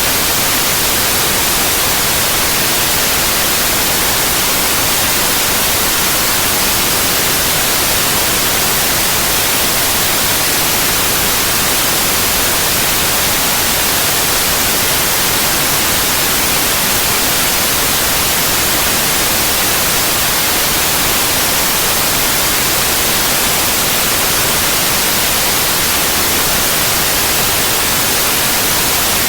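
Steady white noise: an even hiss across the whole range, unchanging throughout.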